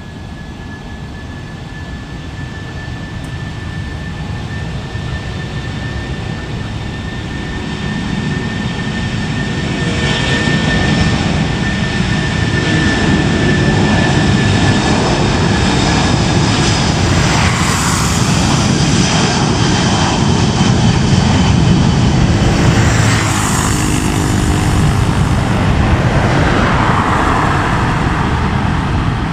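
Airbus A330-300's Pratt & Whitney PW4000 turbofan engines at takeoff power: a steady high whine over a deep rumble. It grows louder over the first ten seconds as the airliner spools up and rolls, then holds loud.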